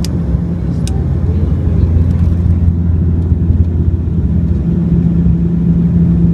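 Steady low rumble and hum of a moving vehicle, heard from inside it, with two small clicks in the first second.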